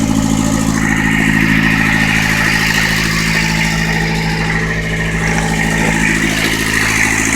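Westerbeke marine diesel engine idling steadily in neutral, heard through an open engine hatch. A higher steady whine joins it about a second in.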